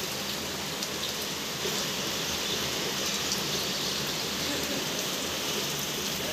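Heavy rain falling steadily, an even hiss with faint scattered ticks of drops striking surfaces.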